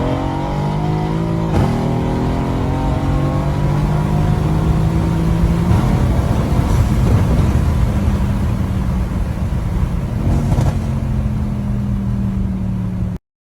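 Mercedes-AMG C63 S's M177 twin-turbo V8 running: its note drops in the first second or so, then holds steady with a slow slight rise, and cuts off abruptly near the end.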